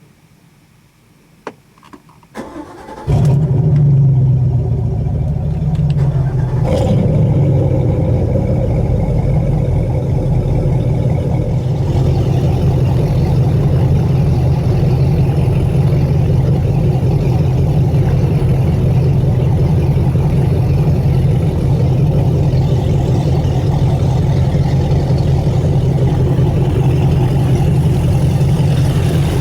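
Chris Craft Corsair 28 boat's inboard engine cranked and started: a click, a brief crank, then it catches about three seconds in and settles into a steady idle. A short sharp sound comes near seven seconds, and the idle runs on unchanged.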